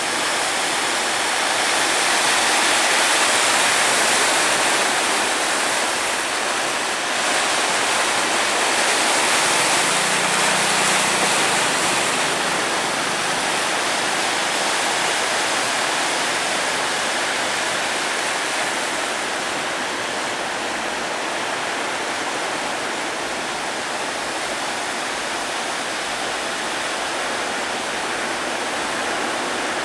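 Large sea waves breaking in a steady wash of surf, swelling louder twice in the first half.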